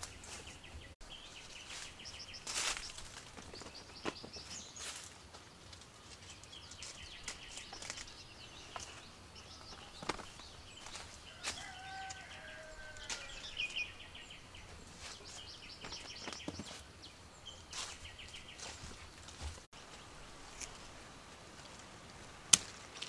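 Birds chirping in quick repeated trills, with a couple of short rising-and-falling calls midway. Scattered clicks and knocks come throughout, and there is one sharp, loud click near the end.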